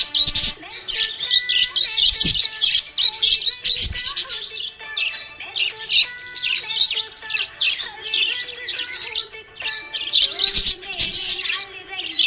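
Budgerigars chirping in a rapid, continuous chatter of short high notes.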